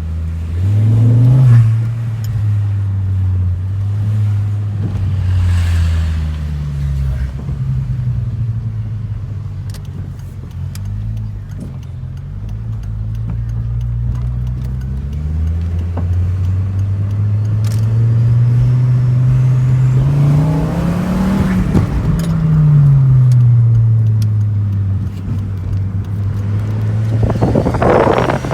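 Turbocharged Volvo engine revving up and dropping back several times, with one long climb in revs about three-quarters of the way through before falling away; the turbo flutters as the throttle lifts.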